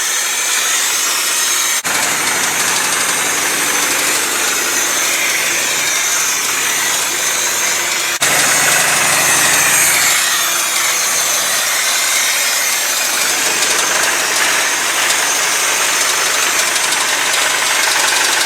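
1989 Ford F250's 5.8-litre Windsor V8 running loud and steady, with two brief sharp breaks about two and eight seconds in. It is firing on only one bank, only four cylinders working, which the owner reads as the other side's cylinders not firing at all.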